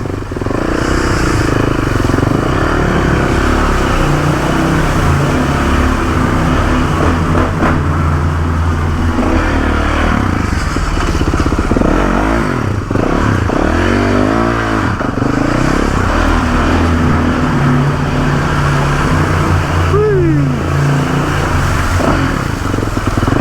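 Dirt bike engines running, the revs rising and falling again and again, with a few quick up-and-down sweeps of pitch about halfway through and a falling rev near the end.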